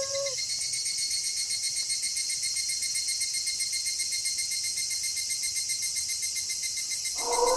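Crickets trilling steadily in a night ambience, a high, finely pulsing chirr. A wolf howl falls away in the first half second, and another wolf howl begins near the end.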